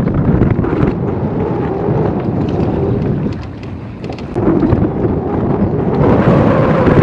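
Strong wind buffeting the microphone in a steady low rumble that eases for about a second a little past three seconds in, then picks up again.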